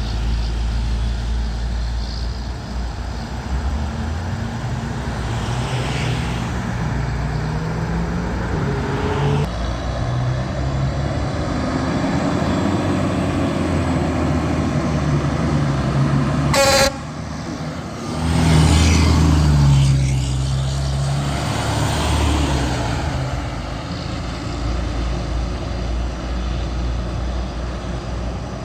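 Fire trucks' diesel engines running as the apparatus pulls away, with a short horn toot. Past the middle, one truck's engine revs up loudly as it accelerates off.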